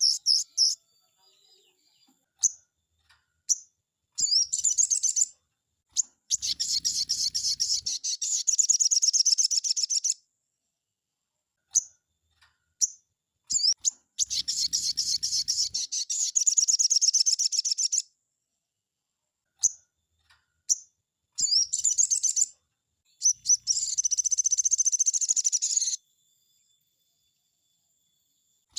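Sogon songbird singing in bursts of fast, rattling trills, several phrases lasting a few seconds each, with single short chirps in the gaps between them.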